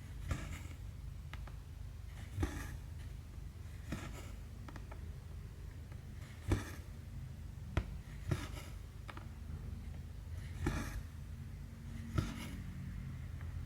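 Embroidery needle clicking through 14-count cross-stitch fabric and the thread drawn through with a short rasping swish, about seven strokes spaced one to two seconds apart, over a low steady hum.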